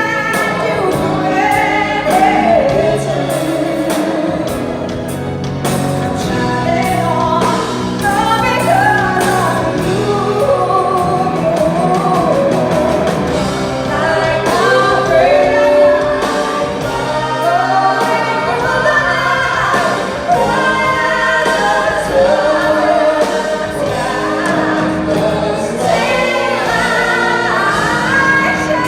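A song: singing voices over instrumental accompaniment.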